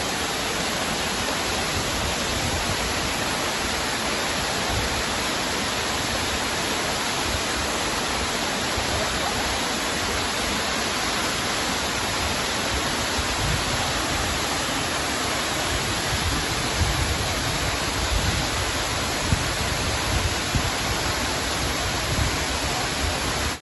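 Waterfall: a steady, loud rush of falling water, with a few brief low bumps in the last third.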